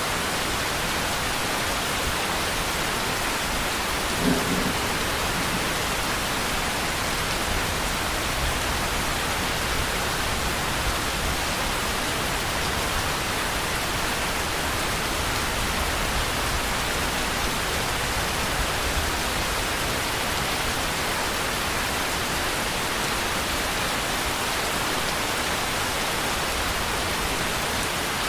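Steady rain, a dense even hiss with low rumbling underneath through the middle part. There is a brief low thud about four seconds in.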